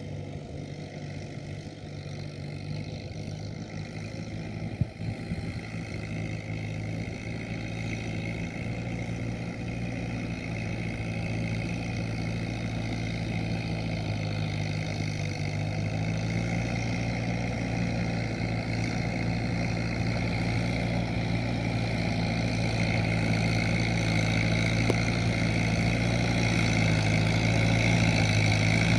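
Kubota M7040SU tractor's diesel engine running steadily under load while ploughing, growing steadily louder. A single sharp click about five seconds in.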